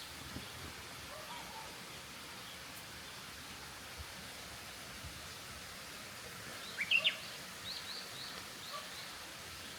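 Small songbirds chirping over a steady outdoor hiss: a couple of short, louder chirps about seven seconds in, then a quick run of faint chirps.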